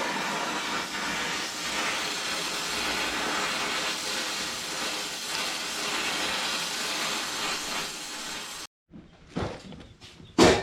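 Brazing torch flame hissing steadily on a 7/8-inch copper refrigerant line elbow, cutting off abruptly near the end. A few light clicks and a sharp knock follow.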